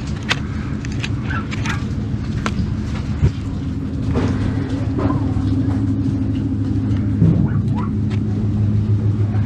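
A steady low engine-like hum that grows louder about four seconds in, with light scattered clicks over it.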